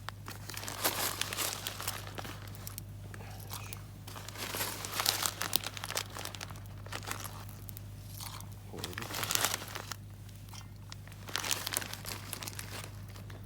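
Plastic packet of penne crinkling in four or five separate bursts as it is handled.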